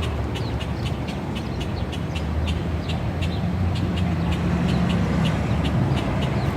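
City street traffic running steadily, with a low engine rumble. Over it is a rapid, even series of short ticks, about three a second.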